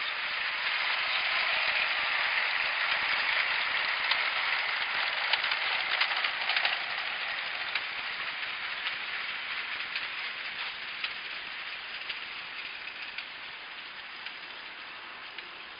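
Battery-powered New Bright G-scale toy train running past, a hissing rumble of motor gearing and plastic wheels on track that swells and then slowly fades, with sharp clicks over the rail joints midway through.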